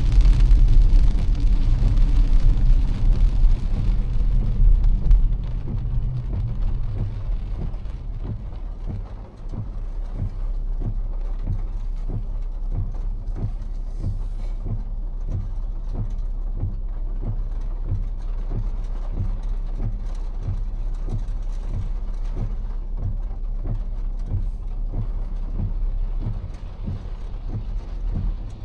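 Car driving on a rain-soaked road, heard from inside: a low road and engine rumble that is loudest for the first five seconds, then settles quieter with an even run of soft low pulses, a little under two a second, over a faint hiss.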